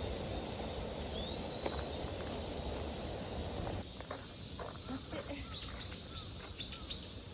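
Outdoor nature ambience: a steady hiss of insects with a few short bird chirps, mostly in the second half.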